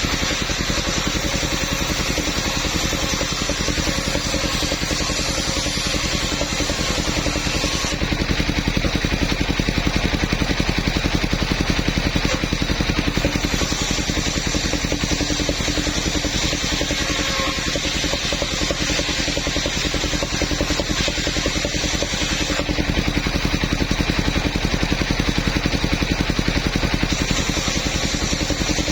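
Engine of a mobile sawmill running steadily at a constant speed, with a rapid, even firing beat.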